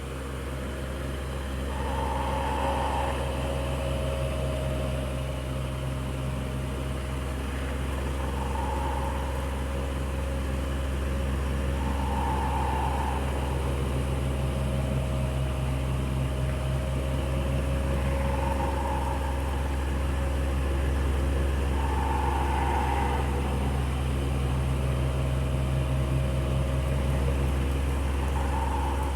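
Electric fan running steadily: a constant motor hum with an even rush of air from the blades, and a slightly higher tone that swells briefly every few seconds.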